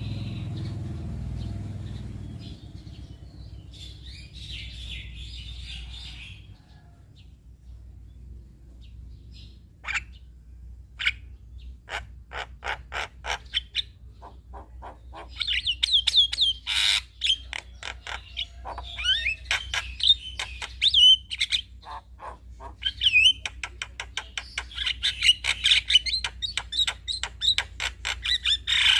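Male Javan myna chattering and singing. Scattered clicks and short calls give way, about halfway through, to a dense run of rapid chirps, whistles and clicks. A faint low hum runs underneath.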